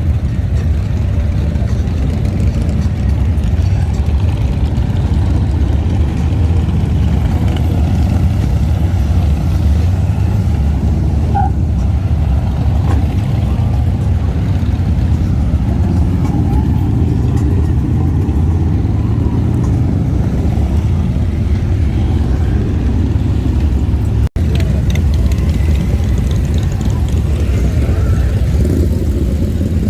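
Steady low rumble of many motorcycle engines idling and revving in slow street traffic, with a split-second dropout in the audio about three-quarters of the way through.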